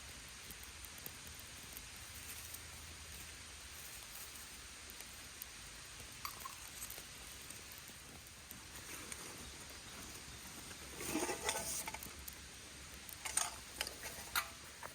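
Faint rustling and scratching with scattered light clicks over a steady hiss, growing into two short bursts of rustling about two-thirds of the way through and near the end.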